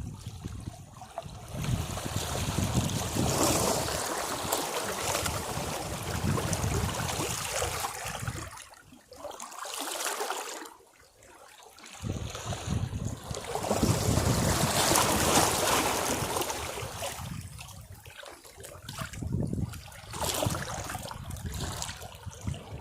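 Sea waves washing against rocks, surging in and draining away in turn. Two big surges of a few seconds each are split by a short, nearly quiet lull, and smaller washes follow near the end.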